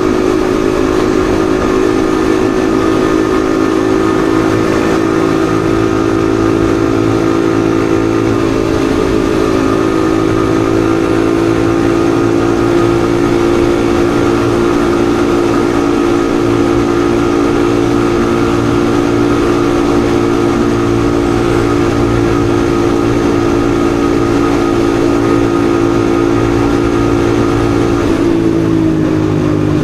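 Yamaha XSR155's single-cylinder engine running at a steady speed while riding, with rushing wind noise; the engine note drops slightly near the end.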